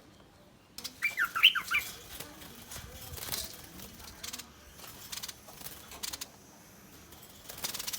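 A bulbul gives a quick run of sharp chirping notes about a second in, then a harsh, rasping scolding burst near the end: threat or alarm calls.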